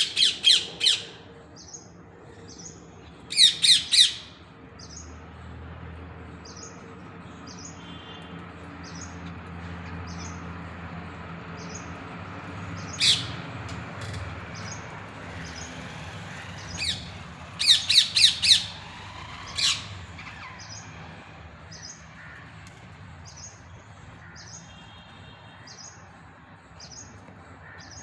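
Parrot squawking in short harsh bursts of three or four calls, loudest near the start, about three seconds in and again around two-thirds through. Faint short high chirps repeat about once a second between them.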